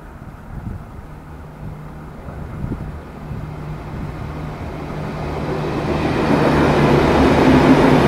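Comeng electric suburban train approaching along the track. Its running noise grows steadily louder, most of all in the second half, over a steady low hum.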